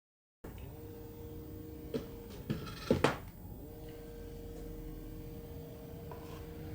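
A few sharp clicks and knocks of small tools and filler being handled at a workbench, the loudest two close together about three seconds in, over a steady faint hum.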